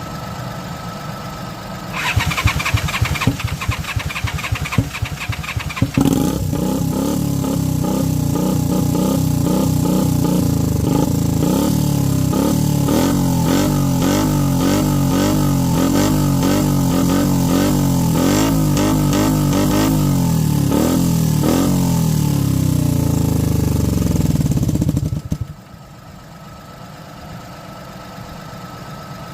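Honda VT250's 250 cc V-twin engine is cranked by its starter for about four seconds and then catches and runs. It is revved repeatedly, the pitch rising and falling with each blip, and it is switched off about four seconds before the end.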